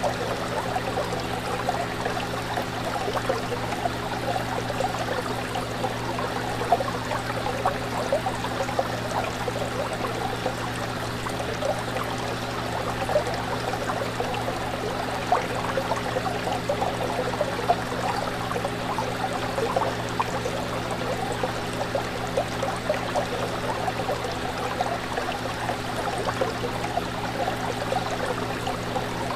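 Fish tank water bubbling and trickling steadily over a constant low hum.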